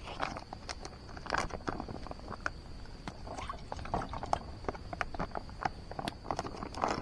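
Crickets trilling steadily on one high note, over irregular rustling and sharp clicks from close by.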